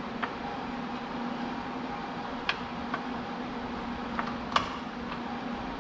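A machine's steady hum, with a few sharp metallic clicks and taps on top. The loudest, a clink, comes about four and a half seconds in; these fit shifting a metal lathe's back gear and handling tools.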